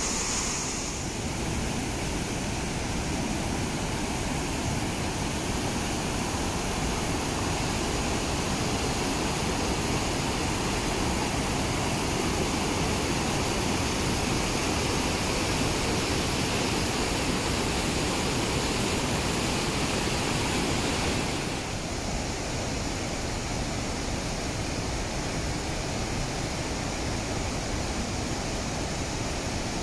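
The large river waterfall of the Rhine Falls, rushing as a steady, dense wall of water noise. It drops slightly in level about two-thirds of the way through.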